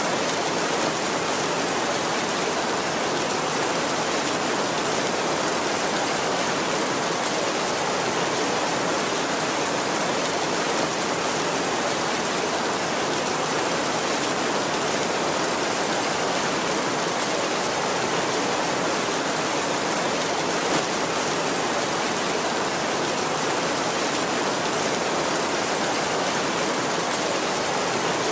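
Heavy rain falling steadily on a tin roof, an even hiss that stays level throughout.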